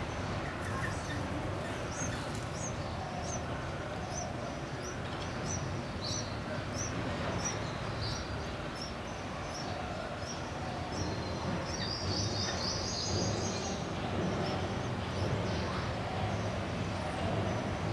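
Small birds chirping: thin high chirps repeated about twice a second through the first half, then a short burst of denser twittering. A steady low rumble of background noise runs underneath.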